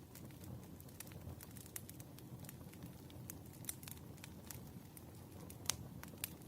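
Wood fire burning in a fireplace: a low steady rumble with frequent irregular crackles and pops, one sharper pop near the end.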